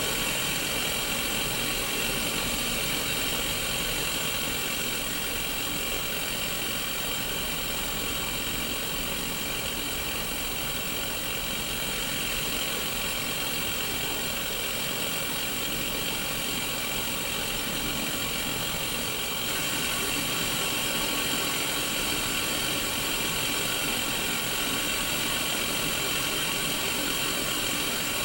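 Steady static hiss from a Sony Mega Watchman black-and-white pocket TV's small speaker, the set tuned to no station, with faint steady tones running under the hiss.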